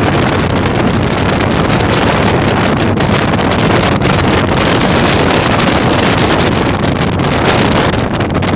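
Heavy wind noise buffeting the microphone at riding speed, with the Yamaha Virago 1100's V-twin engine running steadily underneath.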